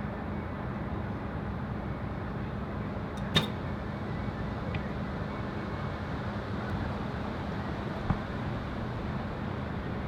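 Steady wind noise buffeting the microphone, with one sharp snap about a third of the way in and a faint tick a little over a second later.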